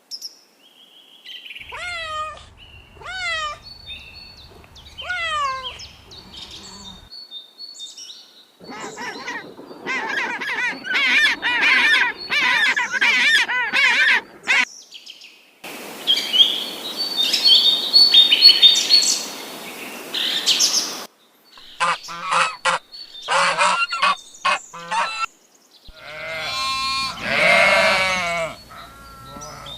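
A run of bird calls in separate short bursts, broken by gaps. Near the start come a few calls that slide down in pitch, followed by a long stretch of dense honking, a noisy burst with high chirps, then short sharp calls and more honking near the end.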